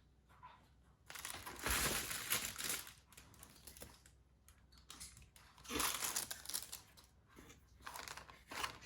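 Packaging crinkling and rustling as it is handled while the microphone is unboxed. There is a long stretch of crinkling starting about a second in, then another, shorter one past the middle.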